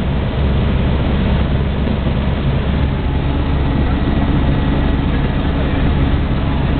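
Helicopter in flight heard from inside the cabin: a steady low engine-and-rotor drone with a constant rushing noise over it.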